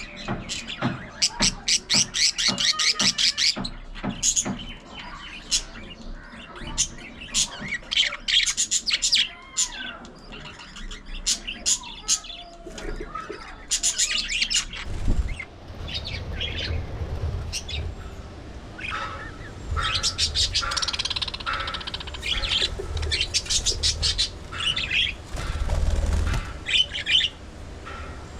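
A flock of budgerigars chattering: rapid, overlapping chirps, squawks and warbles. A low rumble sits under the chatter through the second half.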